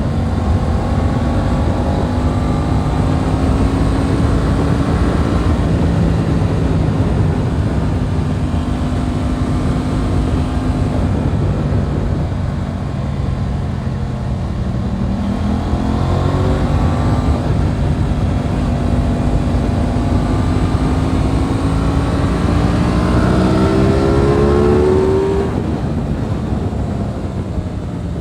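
Aprilia RS 660's parallel-twin engine heard from the rider's seat under heavy wind rush. The revs climb steadily through the second half and fall away near the end as the throttle closes.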